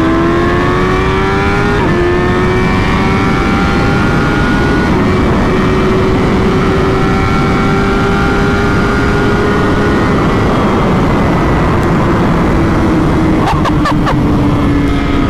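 A Honda CBR1000RR SP's inline-four sportbike engine accelerates hard. The revs climb quickly, drop a step with an upshift about two seconds in, then keep rising more slowly, hold, and fall off gently near the end. Heavy wind rush covers it.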